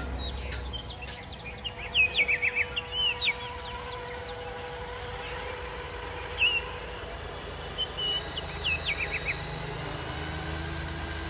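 Birds chirping in short clusters of quick calls, about two seconds in and again from six to nine seconds in, over a steady low background hum.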